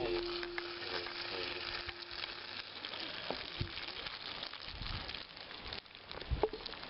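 Food frying in a pan: a steady sizzle with scattered small crackles and pops.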